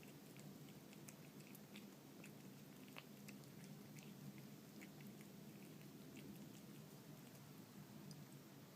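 Faint, irregular small clicks of a cat chewing and eating canned wet cat food with small dried fish, over a low steady hum.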